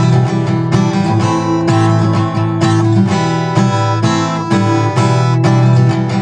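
Acoustic guitar strummed in a steady rhythm, chords ringing between strokes about twice a second, with no singing.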